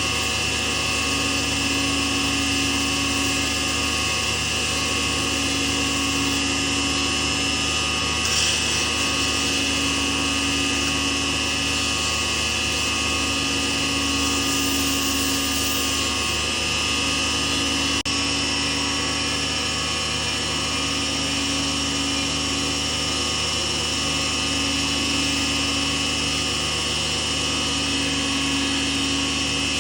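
Small lathe running steadily, its motor giving a constant hum with a slow, regular swell.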